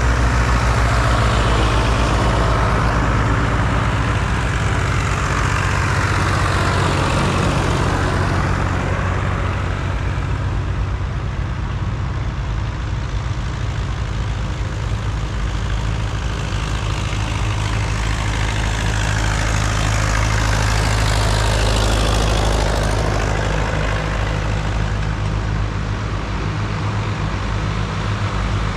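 Vintage diesel tractor engine running steadily under way, with a low, even beat. Twice a wave of rushing road noise swells and fades as vehicles pass close by.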